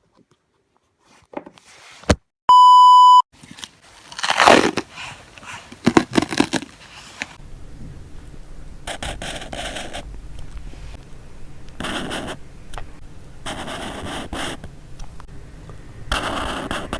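A loud electronic beep lasts under a second, about two and a half seconds in. It is followed by a drawing tool scratching across paper in repeated strokes, each a second or so long.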